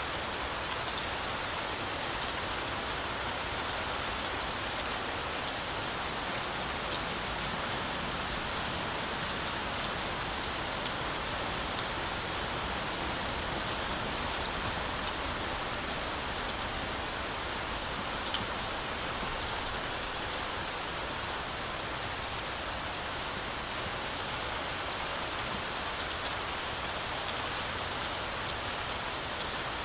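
Heavy rain falling steadily, a dense even hiss with scattered drop ticks, as of rain through a forest canopy.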